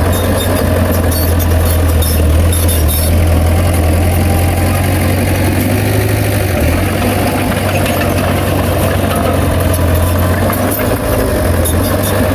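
Heavy diesel engine of earthmoving machinery running steadily with a strong low drone, and irregular clicking and rattling over it.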